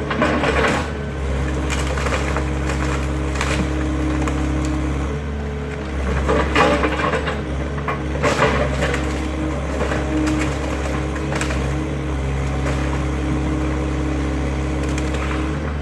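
Excavator's diesel engine running steadily while the garage's wooden structure is crushed and splintered, with irregular crunching and cracking of timber, loudest about six to eight and a half seconds in.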